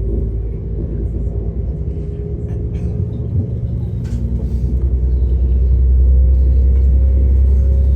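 A diesel passenger train's low rumble heard from inside the carriage as the train runs along, with a steady faint hum above it. The drone grows louder about five seconds in.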